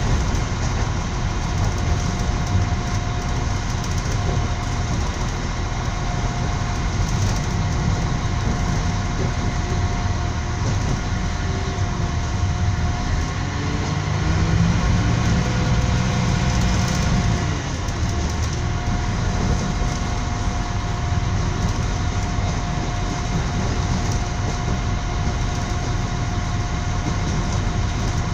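Passenger train running, heard from inside the carriage: a steady low rumble with a faint constant whine, growing louder for a few seconds around the middle.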